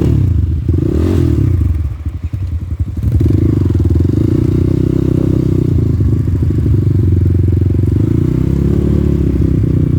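Off-road motorcycle engine revving up and falling back about a second in, dropping off briefly, then running steadily with two gentle rises in pitch.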